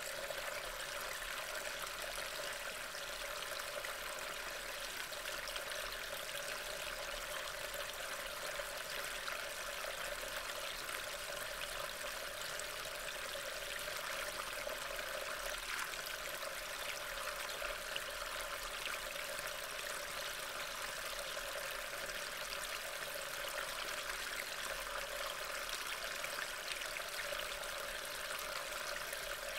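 Steady rain falling in woodland, an even hiss picked up by a trail camera's built-in microphone.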